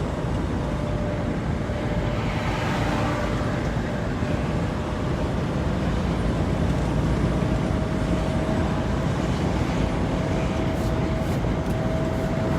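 Semi truck driving on the road, heard from inside the cab: a steady low rumble of engine and road noise, with a faint steady whine that grows a little stronger about halfway through.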